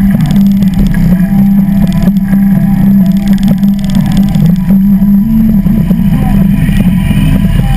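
Harley-Davidson V-twin engine running steadily at cruising speed, its pitch holding nearly level with slight rises and falls.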